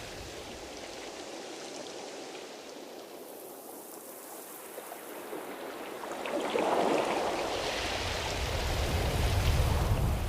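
Ocean surf: a steady wash of water noise that swells about six seconds in as a wave comes in, then falls away near the end.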